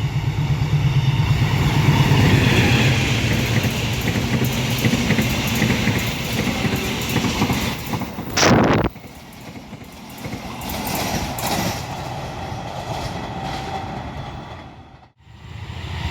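Train passing at speed, its wheels clattering rhythmically over the rail joints. About halfway through the sound cuts off sharply, and quieter train noise follows.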